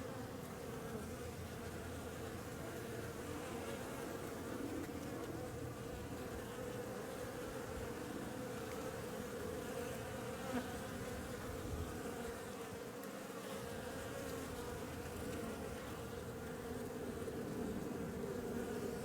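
Honeybees buzzing around the hive entrance, a steady hum of many wings.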